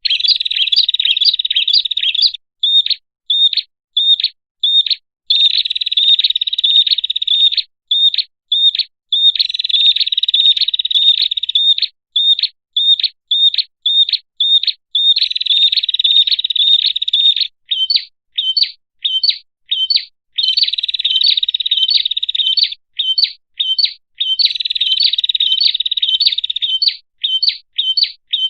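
Prinia (prenjak) calls from a bird-lure recording: sharp, high chirps repeating two or three a second, alternating every few seconds with stretches of about two seconds of rapid buzzy trilling.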